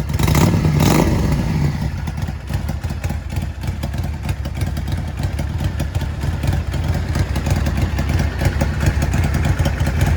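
Yamaha DragStar 400's V-twin running through a custom-built exhaust tuned for a loping Harley-style 'three-beat' idle, with a short throttle blip about half a second in before it settles back to idle.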